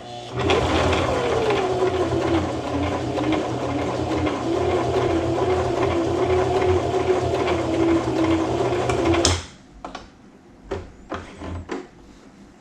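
Sewing machine stitching through nylon strap webbing, running steadily for about nine seconds with a slightly wavering motor whine, then stopping. A few light clicks follow.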